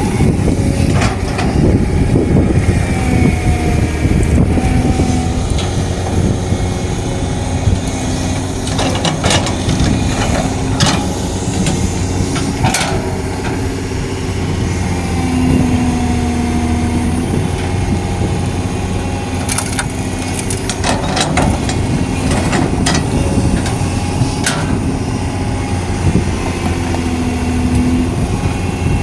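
Large hydraulic excavator working: its diesel engine running steadily under load, with a whine that shifts in pitch now and then and scattered sharp knocks and clanks.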